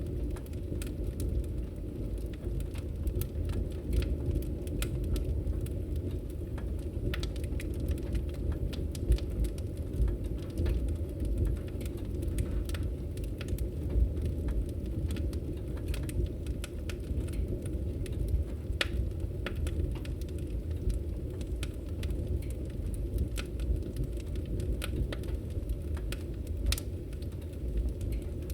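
Wood fire in a fireplace crackling: frequent sharp pops and snaps over a steady low rumble of the flames, with a couple of louder pops about a third and halfway in.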